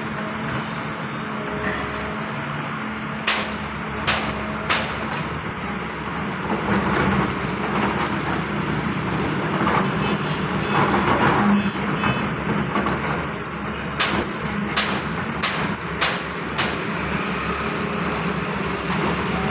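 Diesel engine of heavy earthmoving machinery running steadily, with sharp knocks: three close together a few seconds in and five more about three-quarters of the way through.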